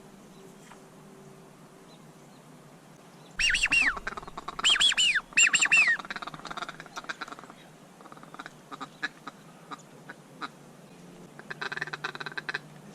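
Duck quacking in quick runs of two or three arched notes, loud from about three to six seconds in, then a softer run of calls near the end.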